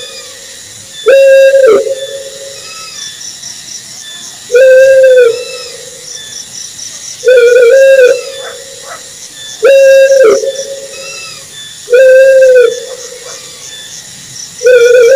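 Owl calling: a loud, pitched hoot just under a second long that rises to a level pitch and dips at the end, repeated six times at two- to three-second intervals. Insects chirr faintly and steadily behind it.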